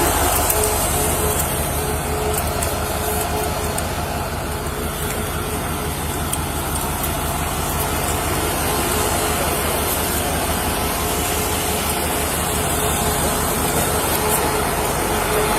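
A large vehicle's engine idling steadily, an even low rumble, with a faint steady hum over it for the first few seconds.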